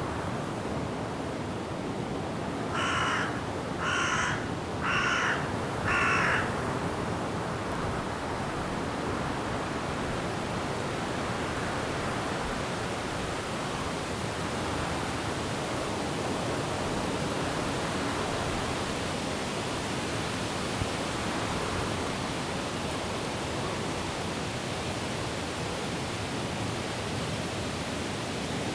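A bird calls four times, about a second apart, early in the stretch, over a steady rush of wind and rain in the trees, which carries on alone afterwards.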